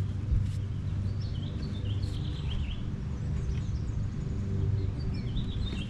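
Steady low rumble of outdoor background noise, with small birds chirping about one to three seconds in. A couple of light clicks come near the start.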